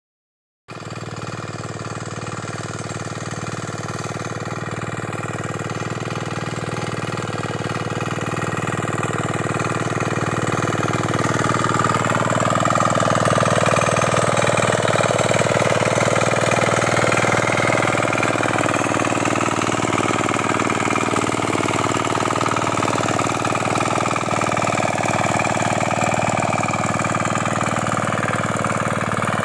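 Single-cylinder 6 hp diesel power weeder engine running steadily while tilling between crop rows; it grows louder over the first dozen seconds, then holds steady.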